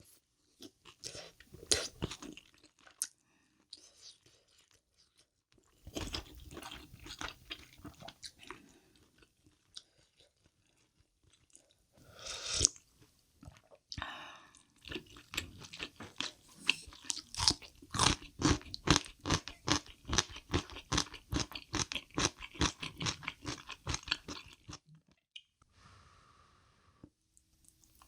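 Close-miked eating: crunching and chewing on crunchy kimchi, in several bursts with short pauses between them. The longest is a fast run of crisp crunches, about four or five a second, lasting some ten seconds in the second half.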